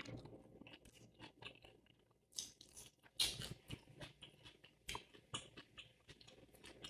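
Close-miked chewing of a burger: irregular wet smacking and crackly mouth sounds with scattered sharper clicks, the loudest a little past three seconds in.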